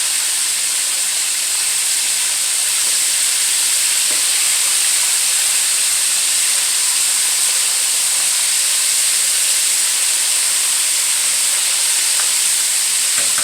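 Mustard-coated chicken wings frying in hot oil, a loud, steady sizzle. The vigorous sizzling shows the wings are still cooking; it settles down once they are done.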